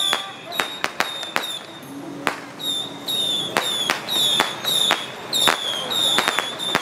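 Firecrackers going off in an irregular run of sharp bangs, several a second, with short high-pitched tones sounding among them.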